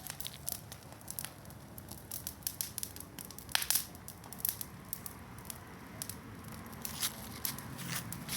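Bonfire crackling, with irregular sharp pops, the loudest about three and a half seconds in.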